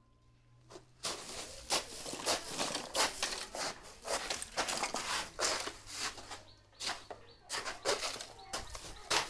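Irregular rustling and crackling with many short sharp crackles, starting about a second in.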